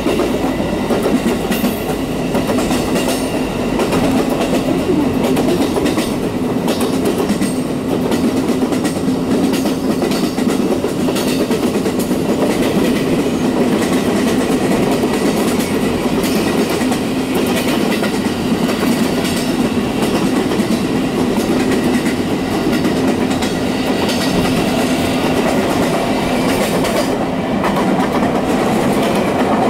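JR West 221 series electric train running at speed, its wheels clicking over the rail joints over a steady hum.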